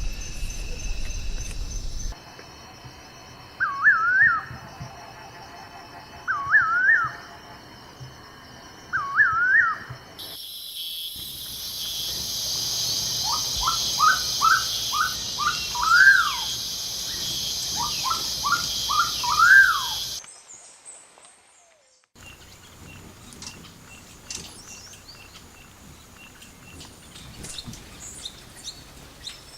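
Birds calling in a run of separate recordings. First a short up-and-down call repeated three times, about every two and a half seconds. Then two phrases of quick rising notes, each ending in a louder swooping note, over a steady high insect-like hiss. Near the end, faint high chirps.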